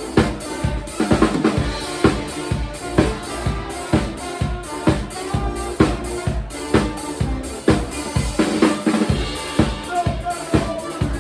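Live band playing an upbeat song, led by a drum kit beating out a steady, driving rhythm on bass drum and snare at about two beats a second under the rest of the band.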